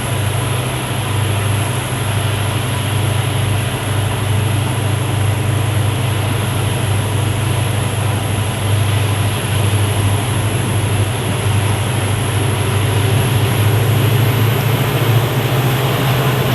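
Train in motion: a steady low rumble with an even hiss over it, unchanging throughout.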